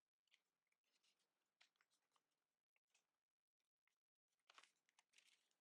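Near silence, with a few faint crackles of paper being creased and shaped by hand, a small cluster of them about four and a half seconds in.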